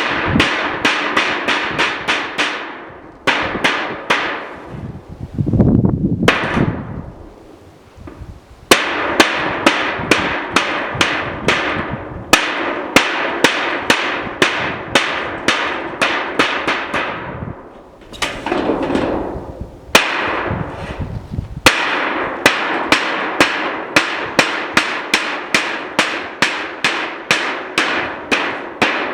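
Hammering in a steady rhythm of about two to three blows a second, each blow ringing briefly, in runs broken by a few short pauses.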